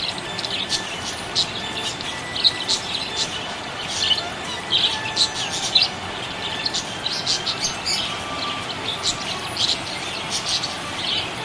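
Budgerigars chirping, a busy, continuous stream of short high chirps and twitters.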